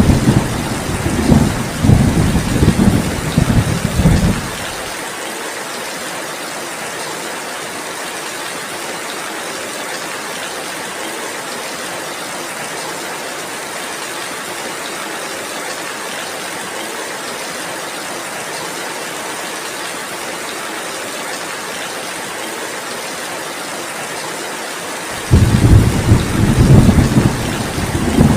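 Heavy rain falling steadily, with thunder rumbling low for the first few seconds, then rain alone, and thunder rumbling in again suddenly near the end.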